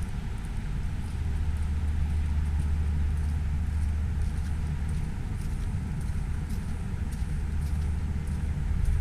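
Steady low rumble of city road traffic, with faint scattered light ticks above it.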